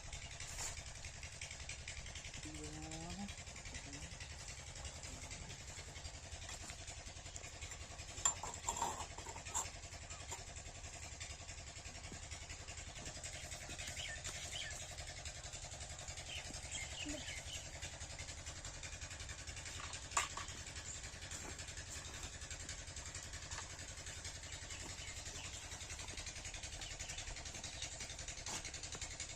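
7HP single-cylinder diesel pumping engine running steadily with a fast, even low beat. A few short knocks come about eight seconds in and again around twenty seconds.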